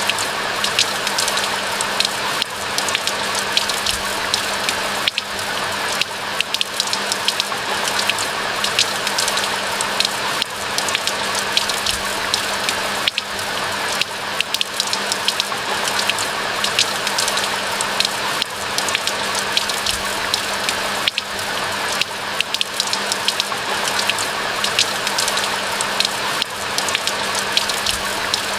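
Steady rain falling: an even hiss of rain with many close individual drop ticks throughout.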